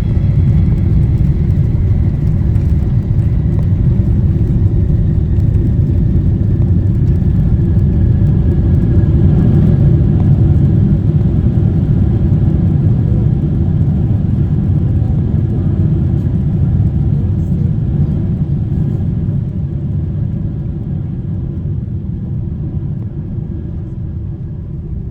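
Loud low rumble inside the cabin of a Boeing 777-300ER during its landing roll, from its engines and wheels on the runway. It dies down over the last several seconds as the airliner slows.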